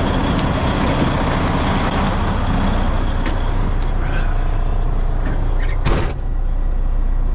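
Semi truck's diesel engine idling steadily with a low rumble, and one short, sharp hiss of air about six seconds in.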